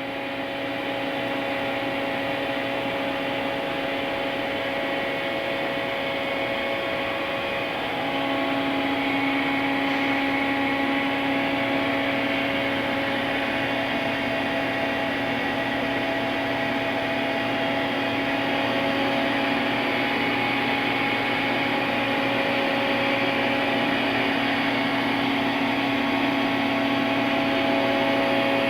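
Fadal VMC4020A CNC vertical machining center running, a steady machine hum made of several fixed tones over a hiss. About eight seconds in a new steady tone joins and it gets slightly louder.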